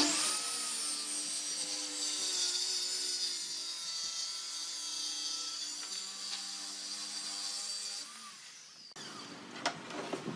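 A woodworking power tool running steadily against wood, with a hum and a high hissing scrape of cutting or sanding. It stops about eight seconds in, and a couple of wooden knocks follow near the end.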